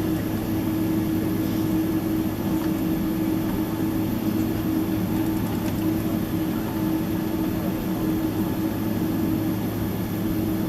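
Steady cabin hum inside a Boeing 767-300ER, a constant drone with a low held tone and no change in pitch or level.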